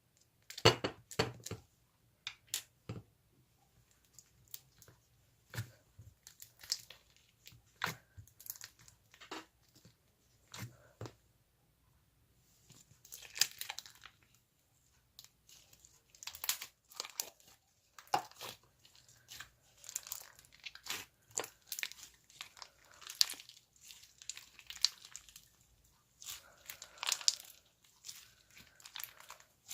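Slime being handled by hand: a run of sharp snaps and clicks, then longer, denser stretches of squishing and rustling in the second half.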